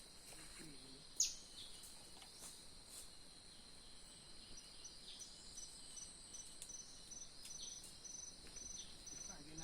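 Forest insects shrilling steadily in high-pitched bands. A run of short, evenly spaced chirps joins about halfway through, and a single sharp downward-sweeping chirp sounds about a second in.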